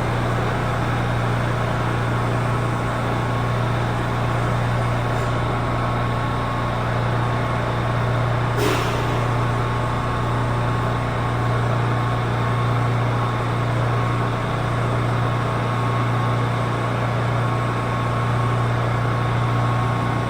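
R179 subway train giving a steady low hum with a faint steady higher whine. A single sharp click sounds a little before halfway.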